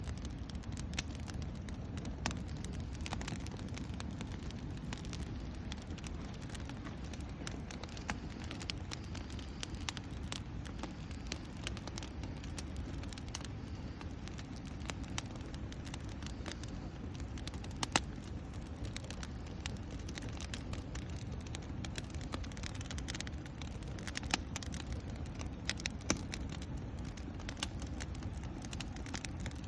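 Wood campfire burning: a steady low noise from the fire with scattered crackles and snaps, the sharpest snap about eighteen seconds in.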